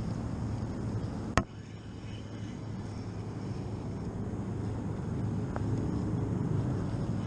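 Steady low rumble of boat engines on the water, with a sharp knock about a second and a half in and a faint tick a few seconds later.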